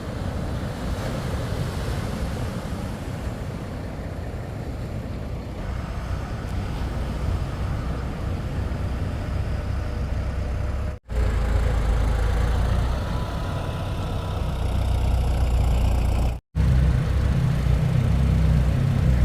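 Steady low engine rumble from a motor vehicle, cut off abruptly twice by brief gaps, and louder after the first gap.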